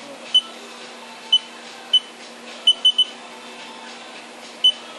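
Short electronic beeps from the CNC mill's control keypad as keys are pressed: seven in all, with a quick run of three near the middle, over a steady low machine hum.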